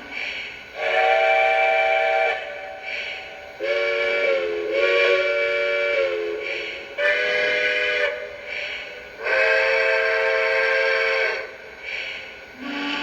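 Lionel Legacy O-scale consolidation steam locomotive's onboard sound system sounding its selectable steam whistles. It gives a series of chime-whistle toots and longer blasts, one dipping and rising in pitch.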